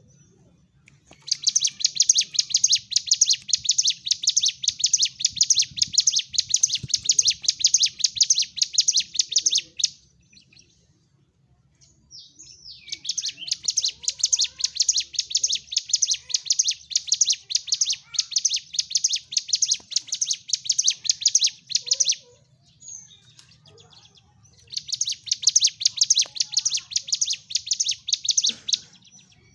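Ciblek gunung (a prinia) singing in fighting mode: long bouts of rapid, shrill chattering notes, three bursts of several seconds each with short pauses between.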